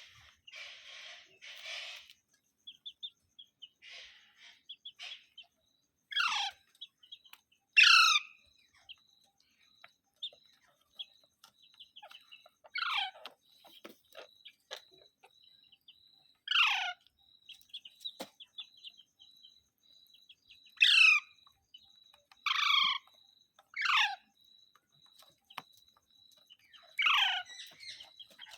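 Pet parrot giving about eight loud, short calls at irregular intervals, each one sliding steeply down in pitch.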